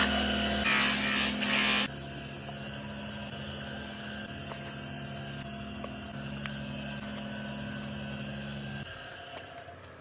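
Electric power tool grinding animal horn: a loud rough abrasive sound for about two seconds, then the motor running steadily without load, its hum dropping and fading out near the end as it winds down.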